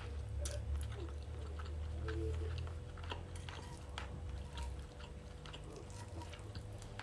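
Close-miked chewing of a mouthful of butter-fried octopus, with small wet mouth clicks scattered through, over a low steady hum that eases about five seconds in.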